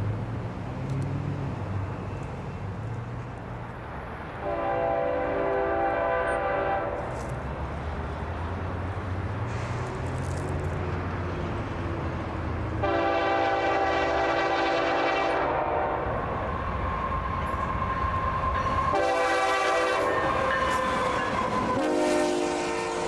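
BNSF diesel locomotive's air horn sounding the grade-crossing signal as the train approaches: two long blasts, a short one, then a long one that runs on past the end. The locomotive's diesel engine rumbles underneath.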